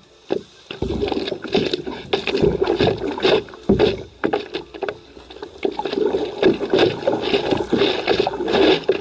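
Water splashing and sloshing around a stand-up paddleboard in a run of irregular splashes.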